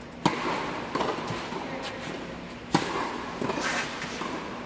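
Tennis ball struck by a racket twice, about two and a half seconds apart, with lighter knocks of the ball bouncing between the strokes, as in a rally.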